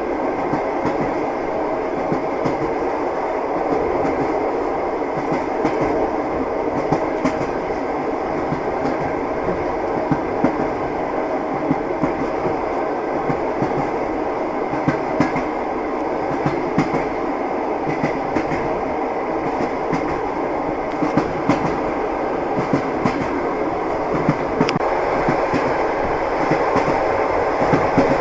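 Train wheels clacking on the rails: a steady rumble with frequent irregular clicks as the wheels cross rail joints.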